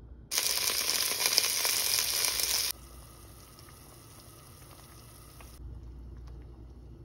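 Food sizzling in a hot pan: a loud crackling hiss for about two and a half seconds that starts and stops abruptly, followed by a much fainter steady hiss.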